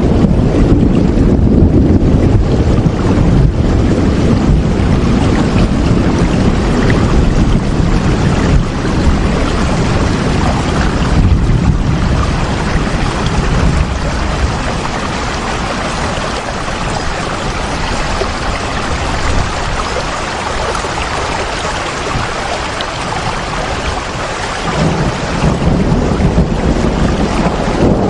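Steady heavy rainfall, a dense even hiss, with a deep low rumble beneath it that eases off around the middle and swells again near the end.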